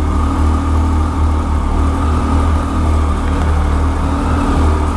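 Triumph Street Triple R's 675 cc three-cylinder engine running steadily at low revs, a constant low rumble with no change in pitch.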